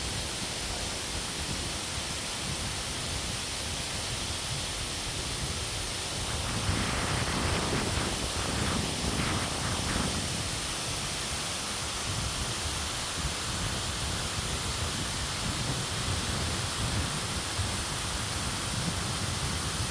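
Steady rushing noise with no distinct events, swelling louder for a few seconds about seven seconds in.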